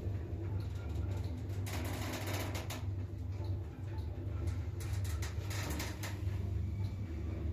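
Elevator winch machine running: a steady electric motor hum with two spells of clicking and rattling, about two seconds in and again about five seconds in.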